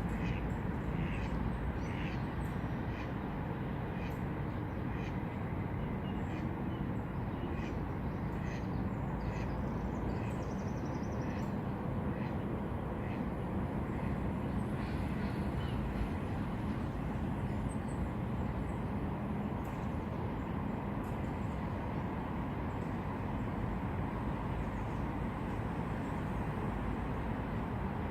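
Steady low rumble of distant traffic, with birds calling now and then in the first half.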